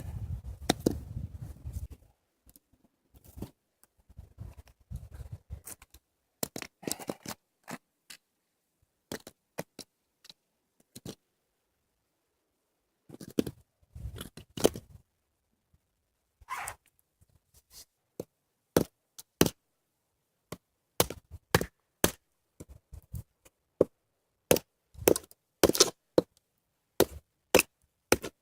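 Sharp wooden knocks and cracks of firewood being broken and split by hand. They are sparse at first and settle into a steady run of one or two strikes a second in the last ten seconds.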